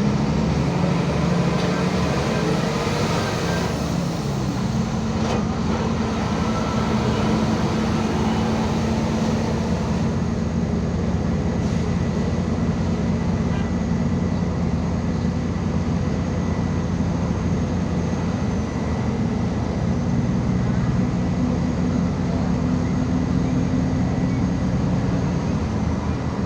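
MAZ 216.066 articulated city bus under way, heard from inside the cabin: steady engine and road noise with a low engine note that shifts in pitch a few times, and a faint high whine.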